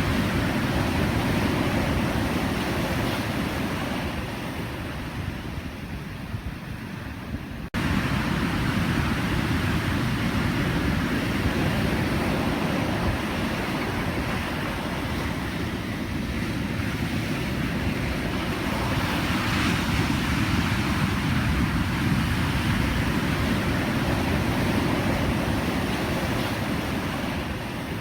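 Pacific Ocean surf: a steady rushing wash of waves. It eases off a few seconds in, then comes back abruptly at full strength about eight seconds in.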